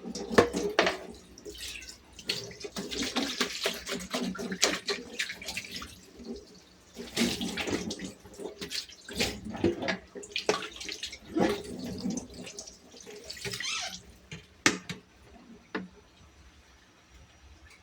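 Tap water running in short spells while things are washed by hand at a sink, with many knocks and clicks from items being handled.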